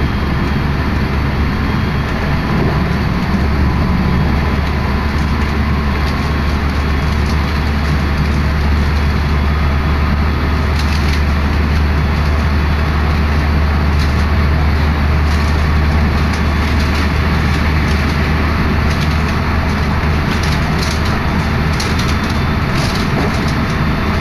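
Electric commuter train running at speed, heard at an open window: a steady low rumble under a loud rush of wind, with scattered clicks in the second half.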